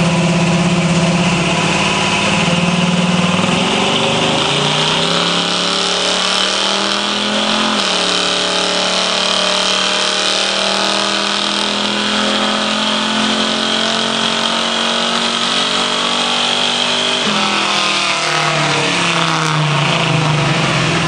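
1969 Chevrolet Camaro's small-block V8 pulling under load on a chassis dyno, rear tyres spinning the rollers: the engine note climbs, drops briefly about eight seconds in, climbs again, then falls suddenly about seventeen seconds in as the throttle comes off and it winds down. A steady high whine from the tyres and rollers runs over it.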